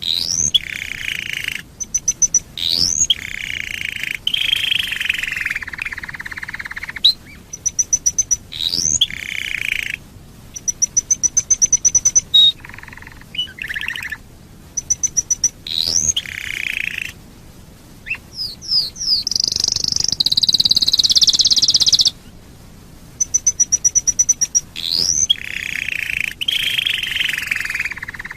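Canary singing in quick successive phrases: rapid trills of short high notes, sharp rising whistles, and buzzy rolling phrases, with a longer high rolling trill about two-thirds of the way through.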